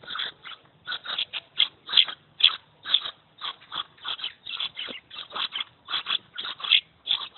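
Maraba bird chicks near fledging calling: a rapid run of short, repeated chirps, about three to four a second.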